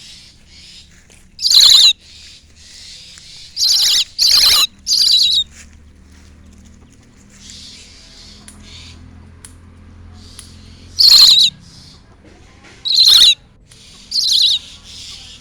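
Birds giving loud, short calls about seven times, each about half a second long and dropping slightly in pitch: a close pair, then a run of three, then three more spread out near the end.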